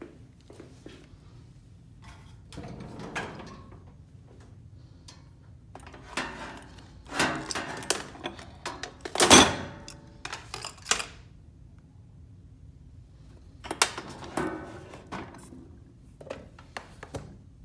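Household handling sounds: a string of knocks, clunks and short scraping rustles in a small room, the loudest a sharp thud about nine seconds in.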